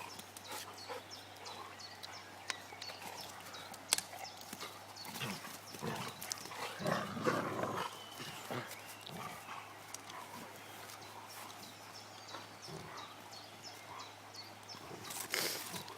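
Two dogs scuffling over a stick, with many small clicks and knocks throughout and a louder stretch of dog noise about six to eight seconds in.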